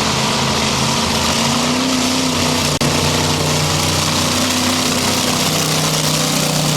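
Monster truck engine running loud and steady under a dense wash of noise, cut off for an instant a little under halfway through.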